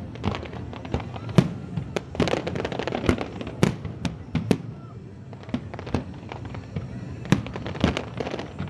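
Aerial fireworks going off: an irregular string of sharp bangs and crackles. They come thickest about two to three and a half seconds in, thin out in the middle, and pick up again with single bangs near the end.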